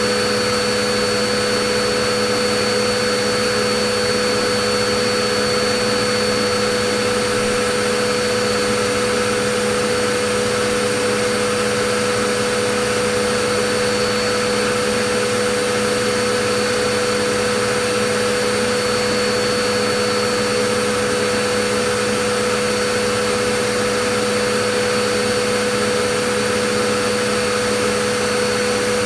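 Vacuum cleaner running steadily, an even rush of air with a constant whine from the motor, no change in pitch or level.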